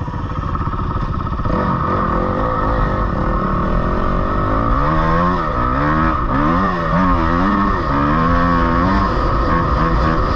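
Dirt bike engine revving up and down over and over while riding a motocross track, with a steady rushing noise underneath.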